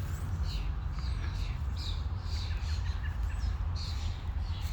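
Birds chirping repeatedly in short calls, over a steady low rumble.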